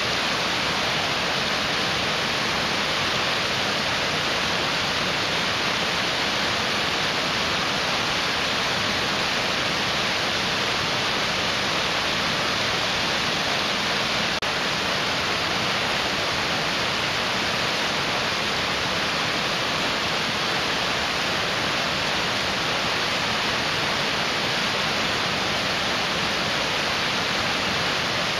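Mountain stream rushing over rocks: a steady, unbroken hiss of fast-flowing water.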